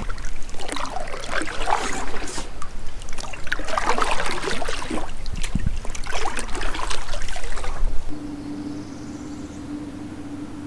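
Water splashing and sloshing around a kayak, irregular and loud, for about eight seconds. It then cuts off suddenly, leaving a steady low hum.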